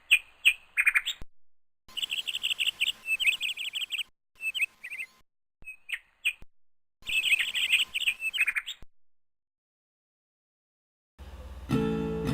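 Small birds chirping and trilling in quick high-pitched runs, heard in several short stretches cut apart by complete silence. Near the end an acoustic guitar starts strumming.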